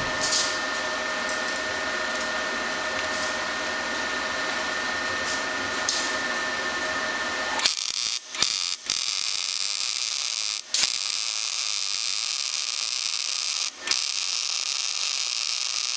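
A welding machine humming steadily. About eight seconds in, a MIG arc from the Razorweld 195 on 110 V strikes and runs with a steady crackling sizzle, breaking off briefly four times.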